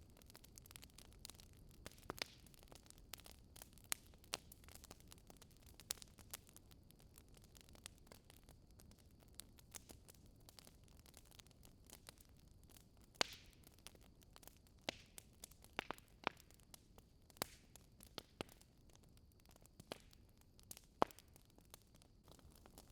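Wood fire crackling in a fireplace: irregular sharp pops and snaps over a faint low hiss, with a louder pop a little past halfway and another near the end.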